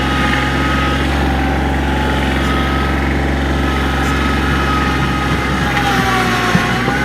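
Compact diesel tractor engine running steadily, with a whine over the engine hum; near the end the pitch sags briefly, as under load, then picks back up, with a single knock.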